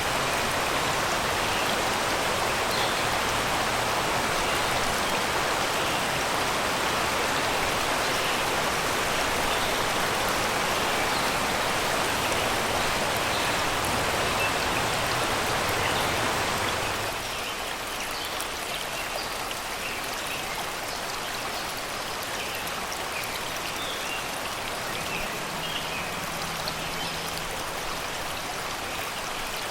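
Shallow river rushing over rocks, a steady wash of water that drops to a softer, quieter flow a little over halfway through. Faint bird chirps sound in the background.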